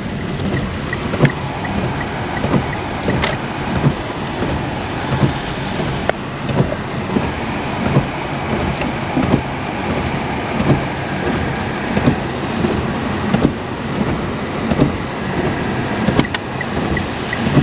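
Steady rushing noise of a flooded river running high, with wind on the microphone and scattered light taps throughout.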